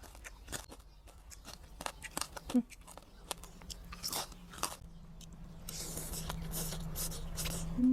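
Close-up biting and chewing of crunchy food: a run of irregular crisp crunches. A low steady hum comes in about three seconds in.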